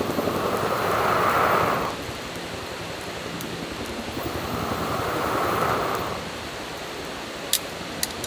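Someone blowing on a wood fire in two long breaths, about two seconds each with a pause between, followed by a few sharp crackles near the end.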